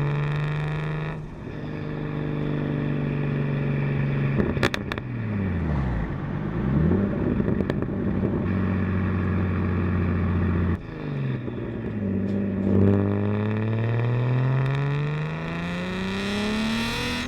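Single-turbo BMW 335i's turbocharged straight-six running under way. Revs hold steady, fall away about five seconds in, settle again, then climb steadily through the last few seconds as the car accelerates.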